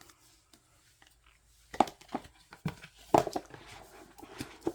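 Album packaging and photocards being handled on a table: a quiet start, then a series of short taps and rustles of card, paper and plastic.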